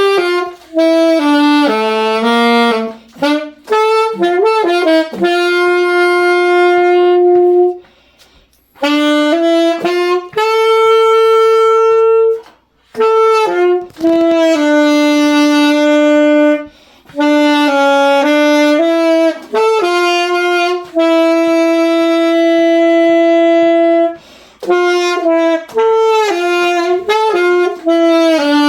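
Saxophone playing a slow melody, one line of phrases with long held notes and short breaks between them.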